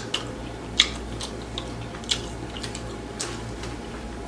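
A person chewing chicken close to the microphone: a string of short mouth clicks and smacks, irregular, roughly one every half second.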